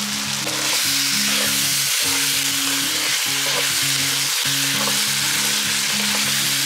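Methi chicken curry sizzling in an oiled pan as it is stirred, a steady frying hiss that gets a little louder about a second in. Soft background music with low held notes plays underneath.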